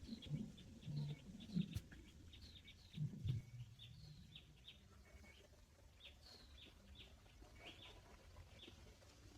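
Small birds chirping: many quick, high, downward-sliding chirps, scattered and overlapping. A few low thumps sound in the first few seconds.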